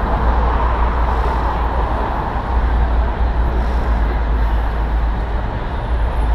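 Steady low wind and road rumble on an action camera's microphone during a bicycle ride, over a continuous noise of city street traffic.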